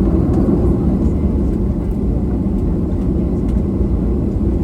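Steady low rumble inside the cabin of a Boeing 737-800, its CFM56-7B engines running.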